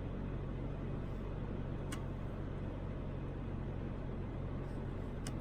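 Steady engine and road noise heard inside a moving Toyota Land Cruiser 80, with a low engine hum and tyre noise. Two faint ticks come about two seconds in and again near the end.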